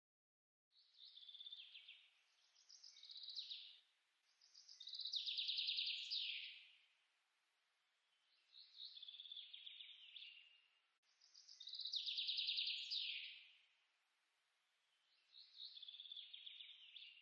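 Birdsong: quick, high trilled phrases, the same run of phrases heard twice over.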